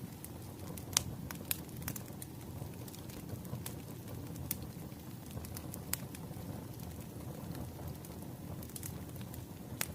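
Wood fire crackling: a steady low rumble of burning logs with irregular sharp pops, a louder pop about a second in and another near the end.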